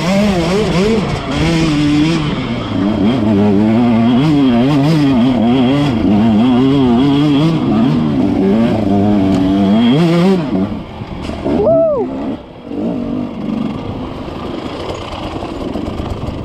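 Dirt bike engine revving up and down unevenly for about ten seconds, then dropping to a quieter, lower running, with one quick sharp blip of the throttle shortly after.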